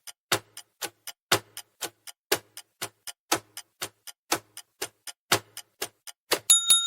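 Countdown timer sound effect: a clock ticking about four times a second, loud and soft ticks alternating, ending near the end in a bell-like ding that rings on.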